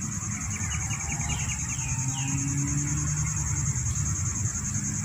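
Outdoor ambience: a steady high-pitched drone over a low rumble, with a quick run of small bird chirps starting about half a second in and a single falling bird call about two seconds in.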